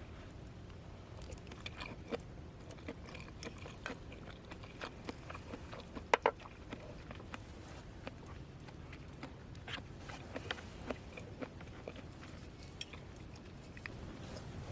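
Scattered faint clicks and crackles over a low steady rumble, with a sharper double click about six seconds in.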